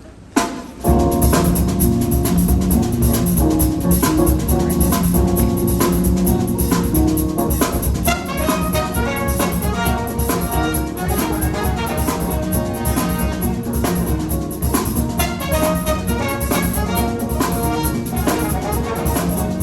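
A live band starts playing: a single sharp hit just under half a second in, then the full band comes in under a second in with a drum kit keeping a steady beat under sustained instrument notes.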